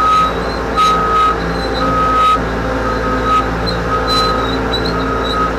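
Cat 248B skid steer's diesel engine running steadily while its backup alarm beeps about once a second, the sign that the machine is in reverse.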